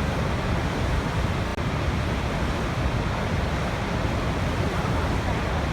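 Waterfall's rushing water, a steady, unbroken roar with most of its weight in a deep low rumble.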